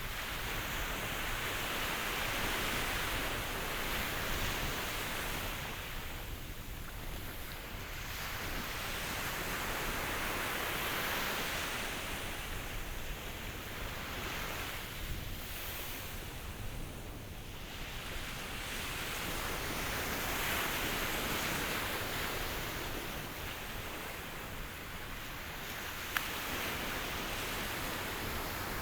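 Ocean waves washing in, a steady surf that swells and recedes every few seconds.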